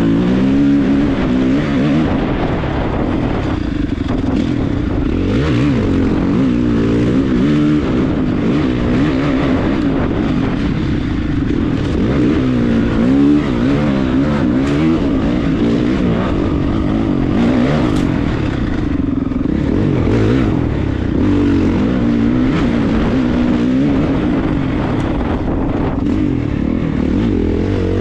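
Honda CRF450RX dirt bike's single-cylinder four-stroke engine being ridden hard, its pitch rising and falling again and again as the throttle is opened and shut through the turns.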